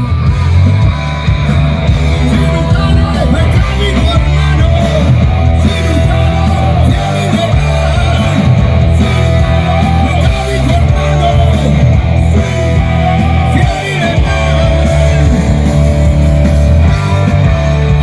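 Loud rock music with electric guitar and singing over a heavy, steady low end; it starts abruptly.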